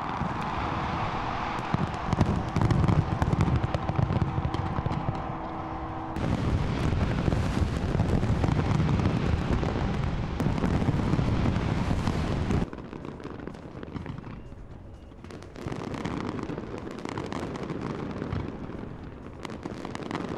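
A large fireworks display going off: a dense, continuous run of deep booms and crackling. The level drops abruptly about twelve and a half seconds in, leaving lighter crackle and scattered bangs.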